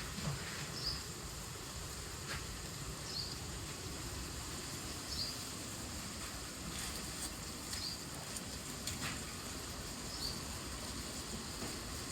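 A small bird's short, high chirps repeating every couple of seconds over a steady low background rumble, with a few faint clicks.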